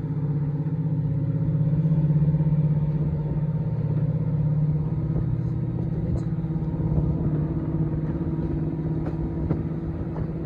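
Diesel locomotive engine running steadily under load, heard over the low rumble of the moving train. It is loudest a couple of seconds in and eases a little after about five seconds.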